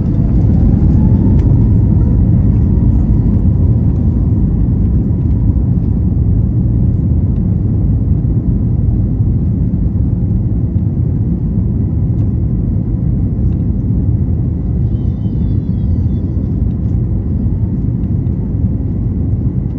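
Airbus A321neo jet engines heard from inside the cabin during the takeoff roll: an engine whine rises and settles into a steady tone about a second in, over loud, steady rumble from the runway and airflow.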